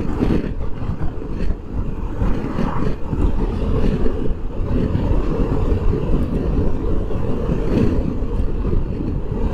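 BMW R1250GS Adventure's boxer-twin engine running, with steady wind noise on a helmet-mounted microphone.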